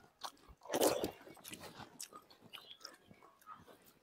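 Faint chewing and crunching of gupchup and dahi bara being eaten by hand, with short clicks throughout and one louder stretch of chewing about a second in.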